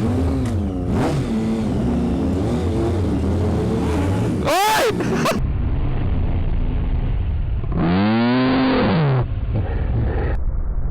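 Sport motorcycle engines revving up and down through the gears. Twice a loud engine note rises and falls sharply: about four seconds in, and again about eight seconds in.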